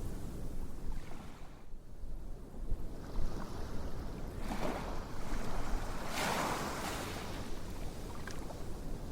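Ocean waves washing in, with two surges of surf about four and a half and six seconds in over a steady low rumble.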